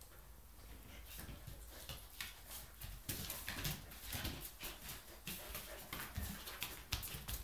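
A chow chow and a Samoyed play-fighting, with quick clicks and scuffles of paws and claws on the floor that get busier about three seconds in.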